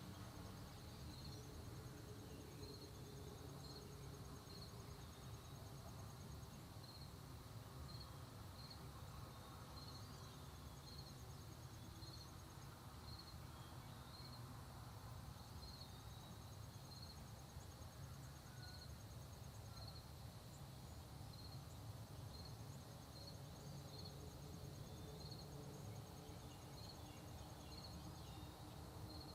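Faint early-morning country ambience: insects chirping at an even pace of about once a second, with a higher, fast trill that comes and goes in runs of a few seconds, over a low rumble.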